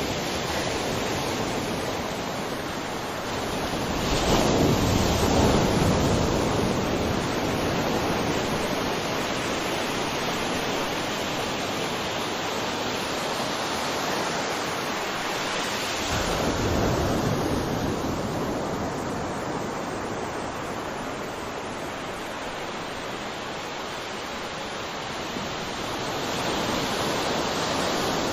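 Sea waves breaking on a shore: a steady wash of surf, with two waves swelling louder, one about four seconds in and another about seventeen seconds in.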